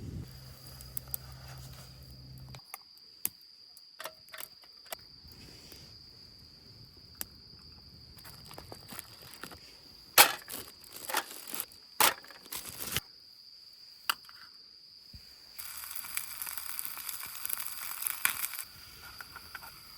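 An insect, cricket-like, trilling steadily at a high pitch, with scattered sharp clicks and snaps, loudest in a cluster a little past the middle, and a few seconds of hissing rustle about three quarters in.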